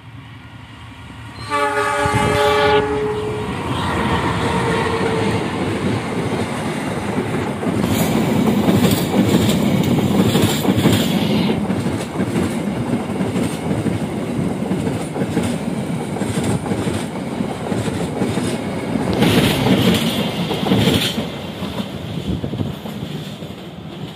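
A diesel locomotive's horn sounds for about a second and a half. A passenger train then passes close by, its wheels rumbling and clattering over the rails. The noise is loudest about eight to eleven seconds in and again near twenty seconds, and eases off near the end as the last coach moves away.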